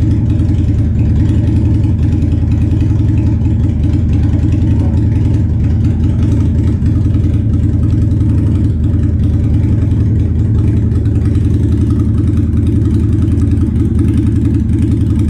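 2006 Harley-Davidson Sportster's air-cooled V-twin idling steadily on a cold start, its choke still on because of the cold.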